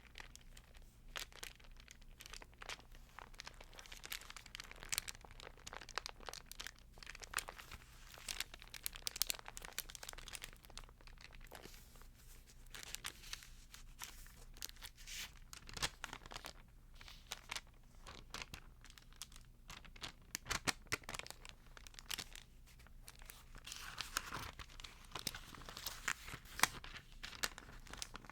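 Thin Bible pages being handled close to the microphone, crinkling and rustling in quick, irregular crackles.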